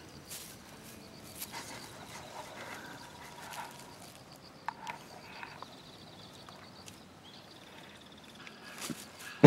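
Quiet outdoor ambience: a faint, steady, high-pitched pulsing trill, with a few soft rustles and ticks scattered through it.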